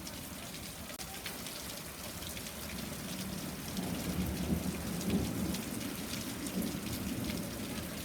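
A thunderstorm with hail: steady rain with many sharp ticks of hailstones striking surfaces. A low rumble of thunder swells from about three and a half seconds in and fades near the end.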